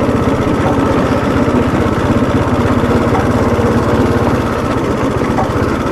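Bajaj Dominar 400's single-cylinder engine running steadily at low speed while riding slowly over a rough off-road stretch, its rapid firing pulse even and unbroken.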